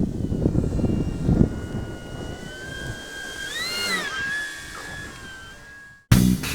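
Electric motor and propeller of a Durafly Slow Poke RC airplane whining steadily in flight over gusty low rumble on the microphone. Its pitch rises briefly and drops back about four seconds in. It cuts off near the end, where guitar music begins.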